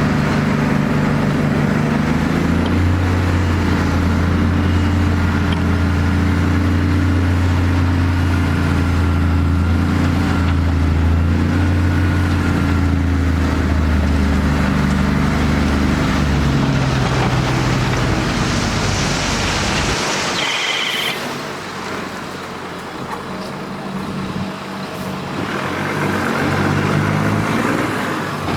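Heavy diesel engine of earthmoving machinery running steadily with a deep drone. About twenty seconds in the engine drops away, with a brief hiss and a short high tone, then picks up again near the end.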